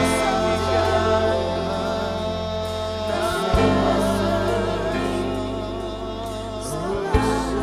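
Live gospel worship music: a slow praise song with voices holding long sung notes with vibrato over sustained band chords. The bass shifts to a new chord about halfway through and again near the end.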